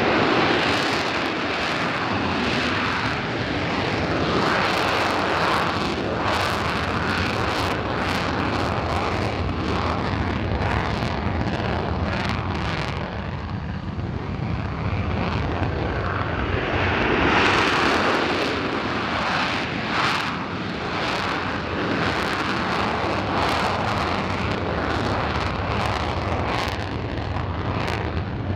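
Military aircraft engine noise: a continuous rushing sound that swells about two-thirds of the way in.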